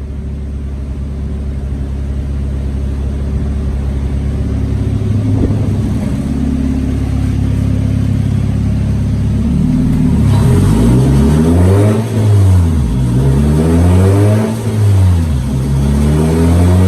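Spec Miata's four-cylinder engine running on a chassis dyno, building steadily, then revving up and down again and again from about ten seconds in. It is the car's worn-out engine, on baseline runs before its refresh.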